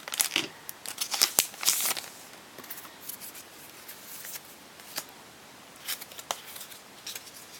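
Foil Pokémon booster pack wrapper crackling and tearing open in a rapid run of crinkles over the first two seconds, followed by scattered soft clicks of the trading cards being handled.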